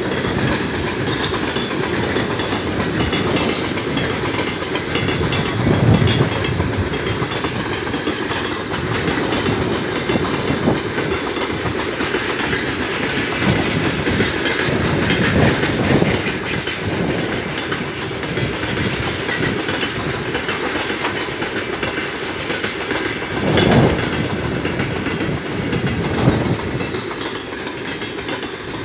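Loaded open-top freight wagons of a long heavy freight train rolling past, their wheels clattering steadily on the rails, with a few louder knocks now and then.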